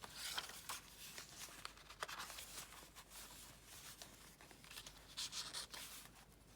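Paper pages of a handmade junk journal rustling and brushing as it is handled and turned around, with scattered soft taps and a longer rustle about five seconds in.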